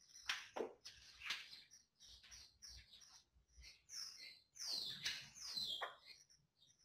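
Faint bird chirping: a scattered series of short high chirps, with a few louder, quick downward-sliding calls about two thirds of the way through.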